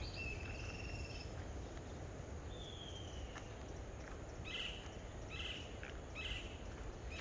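Birds calling: clear whistled notes at first, a falling whistle, then a harsh call repeated about once a second, over a steady low background rumble.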